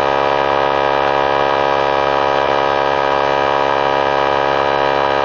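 A 3-gallon oilless pancake air compressor running steadily as it pumps up its tank, a loud, even drone made of many steady tones.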